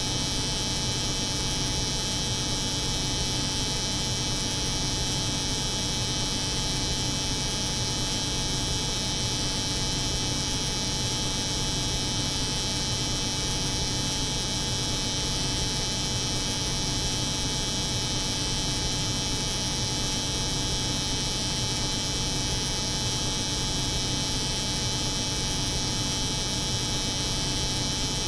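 Steady, unbroken mix of a cold room's refrigeration hum and an electric hair clipper running, with a high whine above the low hum.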